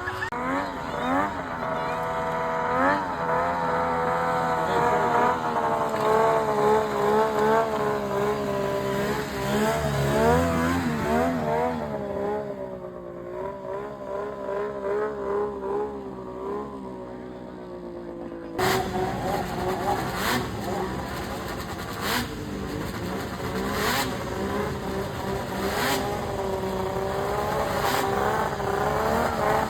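Two-stroke snowmobile engines running and revving, their pitch rising and falling with the throttle. About two-thirds of the way through the sound changes abruptly, and from then on there are sharp knocks every couple of seconds.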